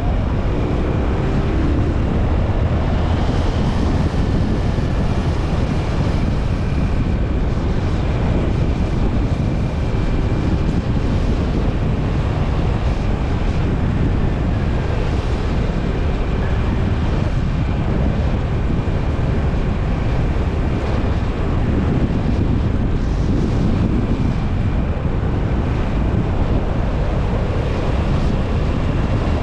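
Steady wind rushing over the microphone of a motorcycle in motion, with the Honda TMX 125 Alpha's single-cylinder engine running steadily underneath.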